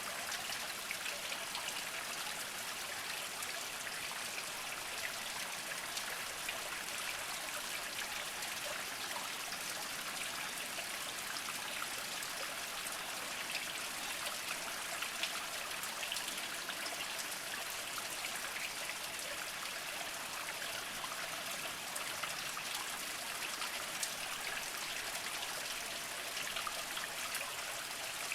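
Small mountain spring trickling slowly over mossy rocks: a steady, even trickle and patter of water, with tiny droplet splashes now and then.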